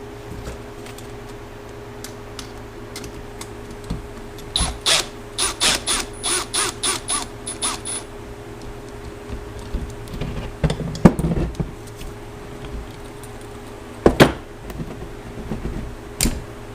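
Metal hand tools working on a motorcycle's starter mounting: a quick run of about ten sharp metallic clicks, about three a second, then a few separate clanks and knocks. A steady low hum runs underneath.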